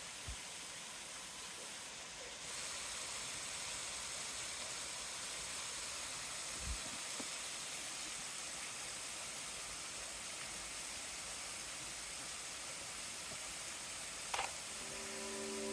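Steady rushing hiss of water falling at a partly frozen waterfall, with a couple of faint knocks. Soft background music with held tones comes in near the end.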